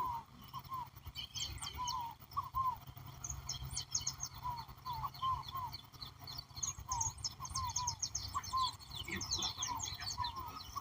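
A chorus of birds at dusk: many short high chirps and trills from several birds, over a run of short, low, hooked call notes repeated about twice a second.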